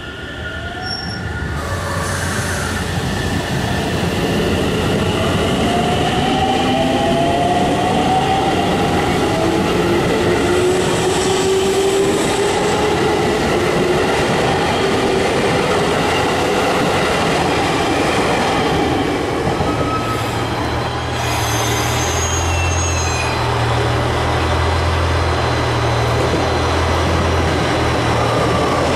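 A train running past close by: the rumble of wheels on rails builds over the first few seconds and then holds loud and steady, with several tones gliding upward in pitch through the middle.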